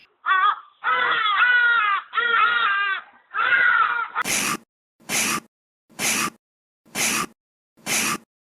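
An animal's wavering, crying calls, several in a row, followed from about halfway by a series of short harsh breathy bursts about once a second.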